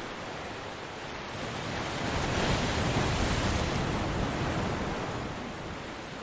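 Ocean surf: a wave swells about two seconds in, is loudest a second or two later, and fades back to the steady wash of the surf near the end.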